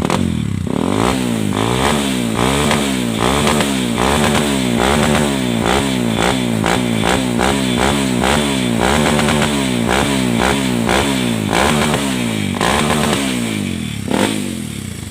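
Kawasaki KLX230's single-cylinder four-stroke engine being revved up and down over and over, about twice a second.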